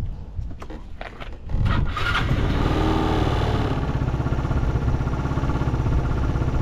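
Yamaha Cygnus X SR (SE44J) 125 cc single-cylinder scooter engine starting about a second and a half in, with a brief flare that settles into a steady idle. It runs evenly with no abnormal noise.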